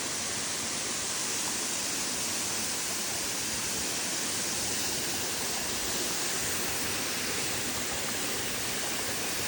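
Waterfall falling into a pool: a steady, even rush of water.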